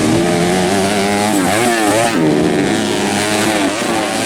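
Several dirt bike engines racing together, their pitches rising and falling over one another as the riders rev and shift.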